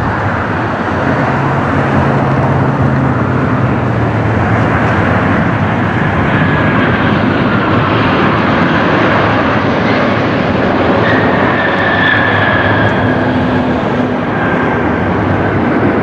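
Jet airliner engines running loud and close, a steady rush of engine noise with a faint high whine that slides slightly down in pitch in the second half.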